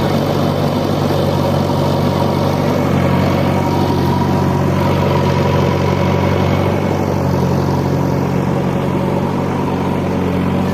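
Engine of a heavy machine such as a backhoe loader or tractor running steadily, a constant low hum that shifts slightly in tone partway through.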